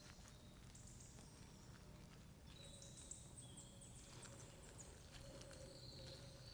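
Faint forest ambience: thin, high-pitched bird calls and short chirps over a low, steady background rumble, the calls thickening about halfway through.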